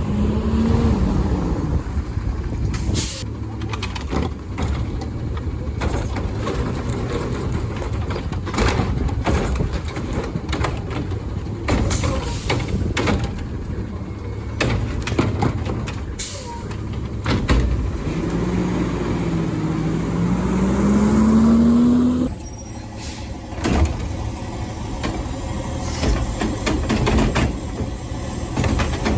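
Diesel garbage truck working its route: the engine revs up and down under hydraulic load, with short air hisses and metallic clanks. Near the end the engine climbs steadily in pitch for a few seconds, then the sound cuts off abruptly.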